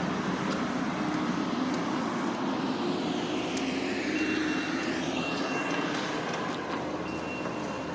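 Road traffic with a vehicle passing. From about four seconds in, a truck's reversing alarm beeps in a series of high, evenly held tones.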